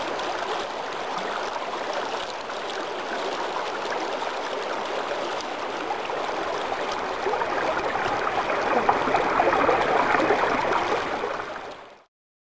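A steady rushing, finely crackling noise with no tune or beat. It grows a little louder partway through and fades out near the end.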